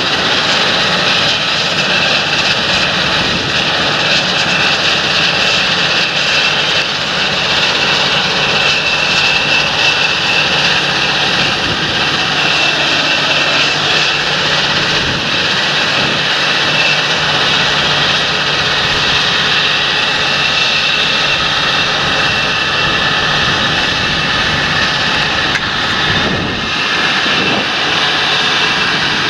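Large John Deere tractor working in the field: steady, loud engine noise with a high whine held over it, dipping briefly near the end.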